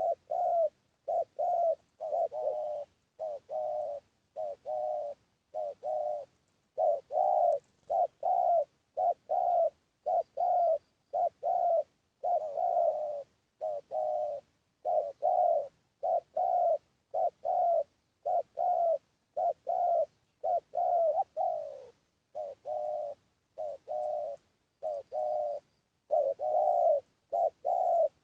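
Spotted dove cooing: a long run of short, repeated coo notes, about one to two a second, with dead silence between them. A decoy call recording for luring wild spotted doves.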